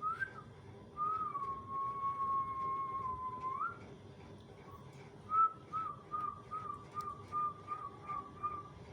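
Whistling: one long held note that sags slightly and jumps up at the end, then after a pause a quick run of short notes, about three a second.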